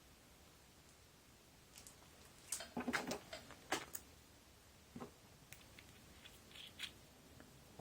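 Light clicks and taps of small parts or tools being handled on a workbench, bunched near the middle with a few scattered later.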